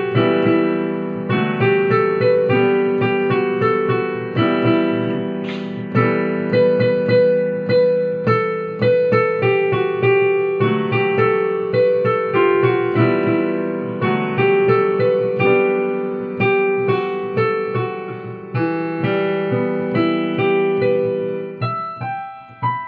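Piano playing a slow, flowing piece: a melody over held low notes, with notes struck in a steady rhythm, thinning out near the end.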